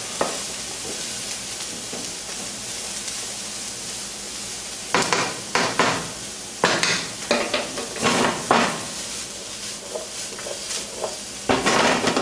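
Chopped carrots, onions and celery sizzling in olive oil in a pan. From about five seconds in, they are stirred, with a run of scraping strokes against the pan.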